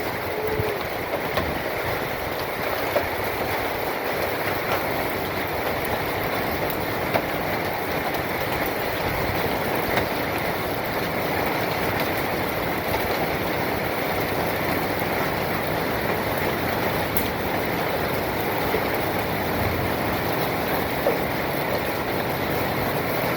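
Hail falling hard: a steady, dense pelting noise with scattered sharper knocks from larger hailstones.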